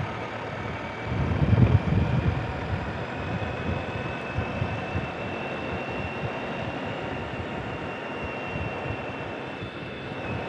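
Motorcycle riding along: steady engine rumble and wind noise with a faint high whine, the rumble swelling for a moment about a second in.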